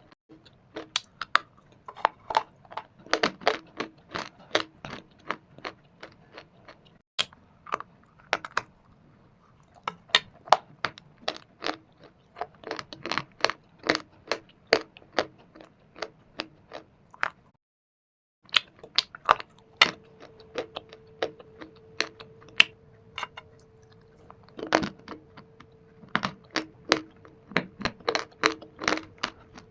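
Dry shale stone and baked clay being bitten and chewed: quick runs of sharp, brittle crunches and snaps, with a brief silent break just past halfway. A faint steady hum sits under the crunching through the last third.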